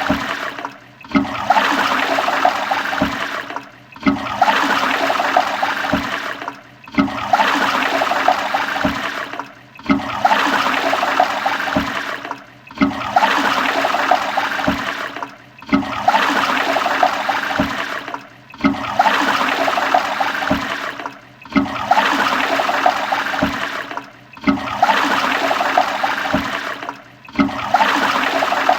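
Toilet flushing with loud rushing water. The same short flush repeats about every three seconds, each time dropping out briefly before starting again with a sharp rush.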